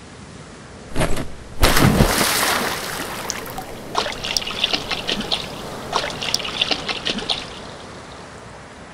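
Water splashing: a loud splash about two seconds in, then a run of small trickling, dripping splashes that fade out.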